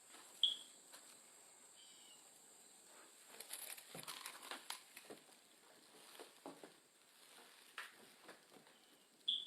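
Faint footsteps crunching and clicking on debris, with two short high squeaks, one near the start and one at the end.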